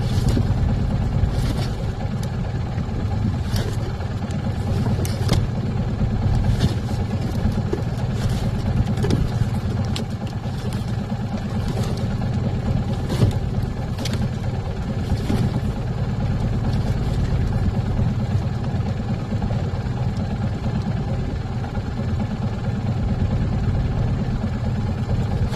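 Engine of a small coastal fishing boat running steadily, with scattered knocks and clatters on top.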